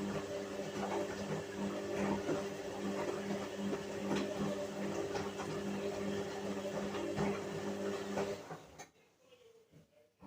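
Whirlpool washing machine running with a steady motor hum and faint clicks and rattles. It stops abruptly about three-quarters of a second before the end, leaving near silence broken by one sharp click.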